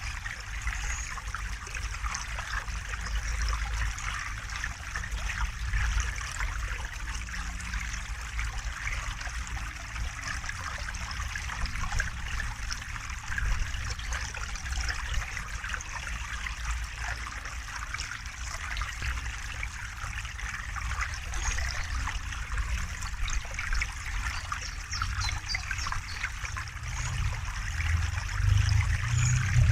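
River water flowing and trickling steadily, with a low rumble underneath that swells near the end.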